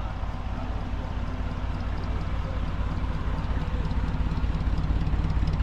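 A car engine running steadily at low speed, its rumble growing a little louder toward the end.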